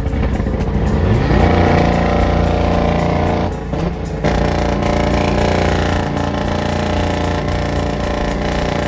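Car engine running hard. It rises in pitch about a second in, then holds at high revs, with a brief drop-off around four seconds in.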